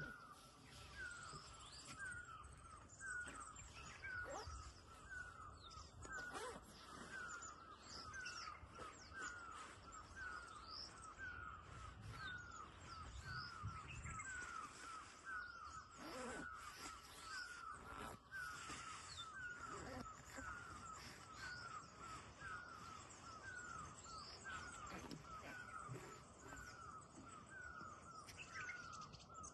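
Early-morning birdsong: one bird repeats a short falling note over and over, a little more than once a second, while other birds chirp and whistle higher above it.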